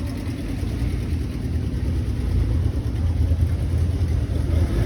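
A car engine running with a low rumble that grows slowly louder.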